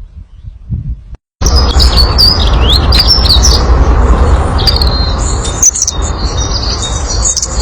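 A group of small birds chirping and twittering together: many quick high notes and short rising and falling whistles, over a loud steady rumbling background noise. It cuts in suddenly about a second and a half in, after a few soft low knocks.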